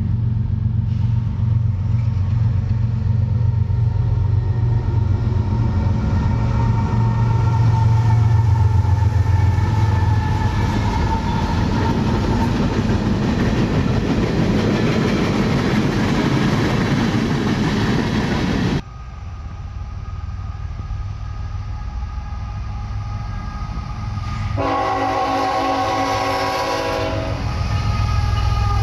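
Diesel train running past with a low engine drone and rail noise. The sound cuts off abruptly about two-thirds of the way through to a quieter scene, where a locomotive air horn gives one blast of about two seconds near the end.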